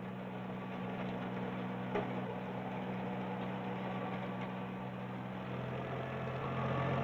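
Ford 1710 compact tractor's three-cylinder diesel engine running steadily, getting a little louder near the end.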